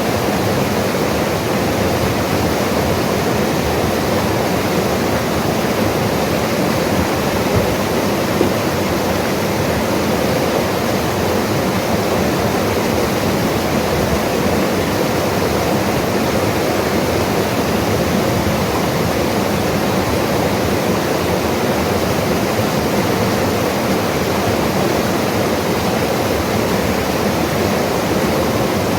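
Mountain river rushing steadily over rocks, a constant loud wash of water.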